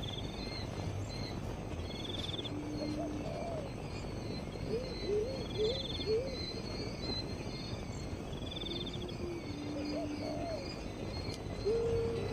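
Wild birds calling: low notes, some short rising-and-falling ones in quick groups and some held ones, with a short high pulsed trill repeating about every two seconds.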